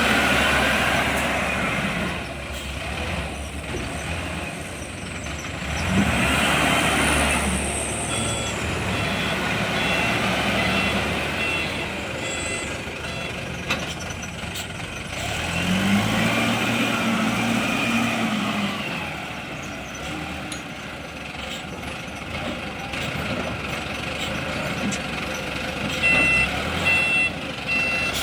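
Wheel loader's diesel engine working, revving up and easing off in several surges as it digs and lifts. A reversing beeper sounds repeatedly near the end.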